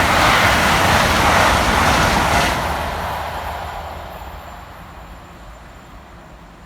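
Great Western Railway Class 800 intercity train passing fast on the main line: a loud rush of wheels on rail and air that fades away from about two and a half seconds in as it recedes.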